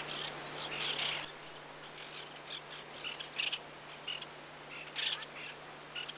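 White-winged black terns calling: short, harsh notes repeated at irregular intervals, several birds at once. Thick at first, then sparser after a second or so.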